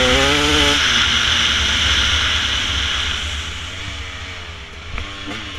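Dirt bike engine revving, its pitch rising and falling, loudest at the start and then fading away over a few seconds; another engine note rises near the end.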